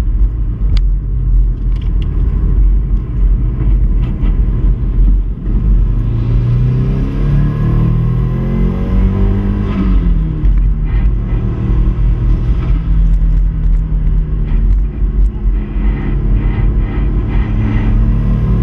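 Subaru Impreza 2.5RS engine pulling hard under a heavy low rumble of road and wind noise. The revs climb for a few seconds about a third of the way in, then drop back sharply before the engine settles into a steady pull again.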